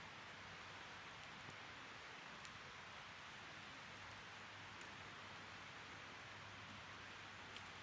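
Wood fire burning: a faint, steady hiss with occasional soft crackles, the sharpest one near the end.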